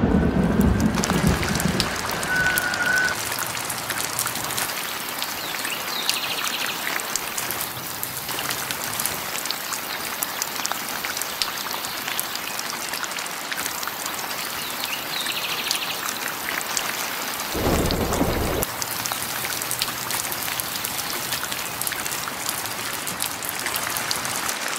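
Steady rain falling. A low rumble of thunder dies away in the first couple of seconds, and another brief low rumble comes about two-thirds of the way through.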